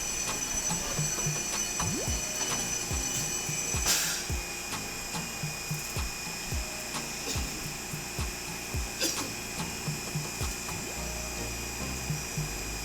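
Electric tram running, with a steady high-pitched whine, repeated low thuds about once or twice a second, and a sharp click twice.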